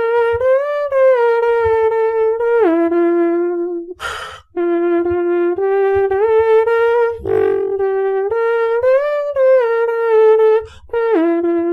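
Beatboxer humming a horn-like melody in long held notes that step up and down, with soft low kick beats underneath. A sharp inhale breaks the line about four seconds in.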